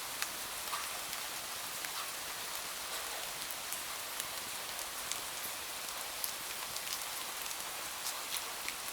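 Steady rain falling: an even hiss with scattered sharp ticks throughout.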